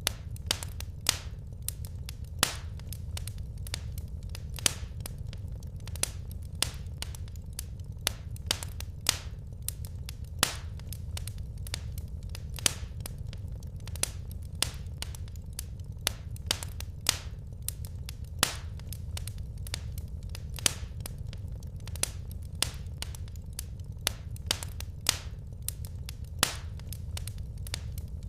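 Wood fire crackling in a fireplace: irregular sharp pops and snaps, a few a second, some much louder than the rest, over a steady low rumble.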